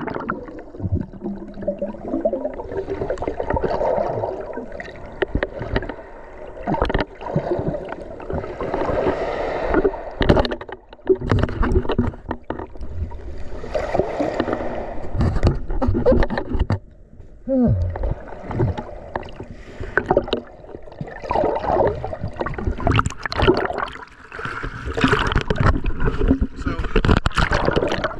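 Ocean surf breaking and washing around a camera held by someone wading in the waves, water sloshing and splashing in uneven surges, with muffled voice-like sounds at times.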